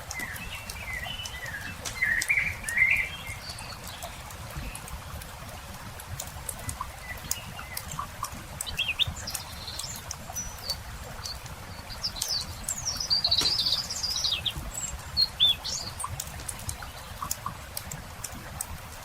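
Wood campfire crackling with frequent small pops, with birds singing: a run of chirps in the first three seconds and a brighter, higher burst of song about thirteen seconds in, with short chirps scattered between.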